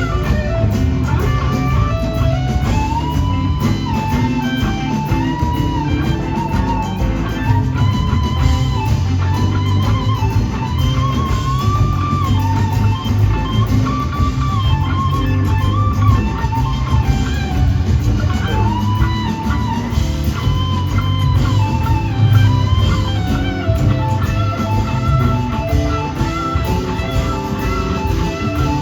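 A live rock band playing an extended jam. An electric guitar lead line with gliding notes rides over bass and drums.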